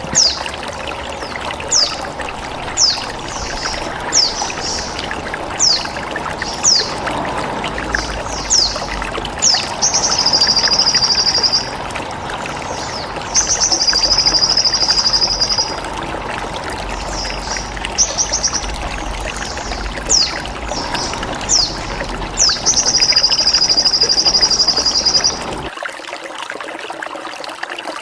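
Sogon bird-training recording: sharp, downward-sweeping chirps repeating about once a second, with three buzzy trills of about two seconds each. Underneath is steady trickling water that stops abruptly near the end.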